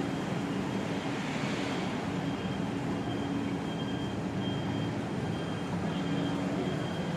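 Steady city background rumble of traffic or machinery with a low hum. From a couple of seconds in, a faint high tone comes and goes.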